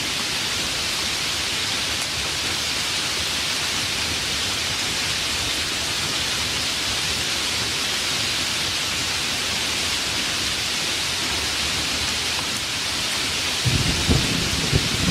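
Steady, heavy rain hissing, and near the end a low rumble of thunder rolls in with a few swells.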